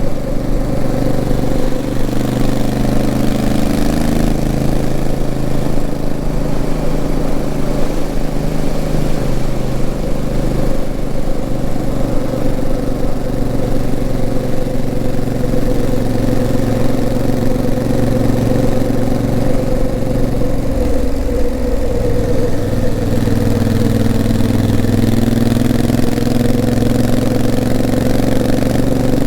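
Honda CRF1000L Africa Twin's parallel-twin engine running under way, its pitch shifting as the revs change, with a change about two-thirds through and the revs slowly rising near the end.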